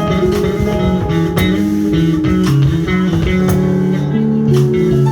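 A live band playing an instrumental passage in a blues-jazz vein: guitar over a moving electric bass line, with drums marking the time with cymbal strokes about every two seconds.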